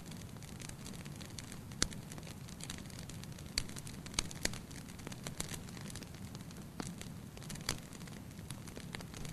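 Fire burning in a fireplace: a steady low rumble and hiss with irregular sharp crackles and pops, several seconds apart.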